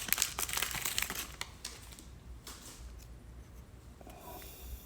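A trading card pack wrapper being torn open and crinkled, busiest in the first second and a half, then only faint handling rustle.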